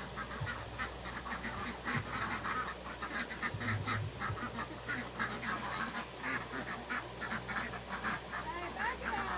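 A flock of birds calling, many short overlapping calls in quick succession throughout, with a few rising-and-falling calls near the end.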